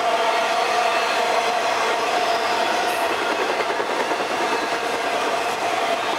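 Trailer-carrying cars of a long intermodal freight train rolling past: a steady rumble and hiss of steel wheels on rail, with a steady tone running through it.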